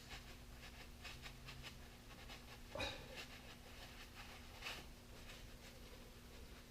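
Faint, repeated rubbing strokes of a rag wiping excess grease off a greased tractor clutch part, with a louder clunk about three seconds in and another light knock a couple of seconds later.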